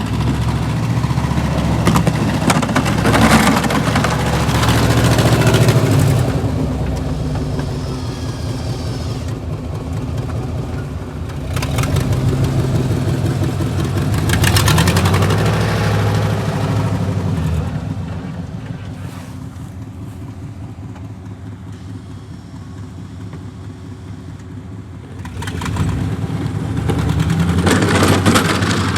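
A vehicle engine running close by, its level rising and falling in turns as it speeds up and eases off, with the loudest pushes a few seconds in, in the middle and near the end.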